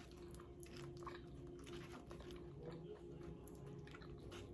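Quiet close-up chewing of crunchy nacho chips, with irregular small crunches. A faint steady hum lies underneath.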